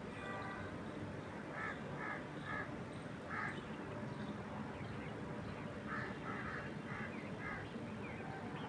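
A bird calls in two runs of about four short calls each, one run near the start and one past the middle, over a steady rush of wind through trees.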